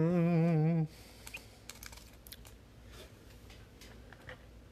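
A voice humming a held note with a wavering pitch for just under a second, then light clicks and rustling of trading cards being handled and sorted.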